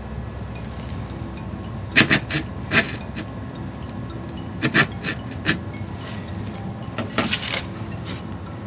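Short scratchy rubbing and rustling in four brief clusters as model trees are pushed into place in the layout scenery, over a steady low room hum.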